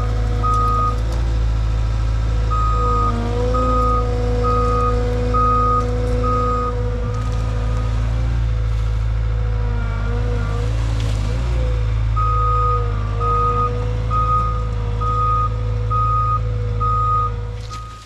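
Skid steer engine running steadily under load with its reversing alarm beeping in three spells as it backs up and moves forward again. The machine's sound drops away sharply near the end.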